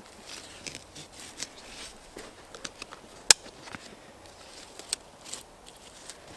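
Camping gear being handled and packed: irregular rustling with light clicks, and one sharp click about three seconds in.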